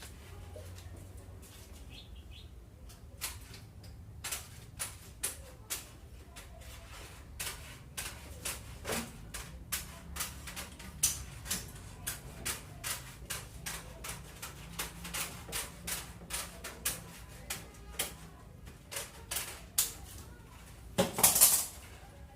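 Metal snips cutting steel wire mesh, a sharp snip roughly twice a second, with a louder clatter near the end.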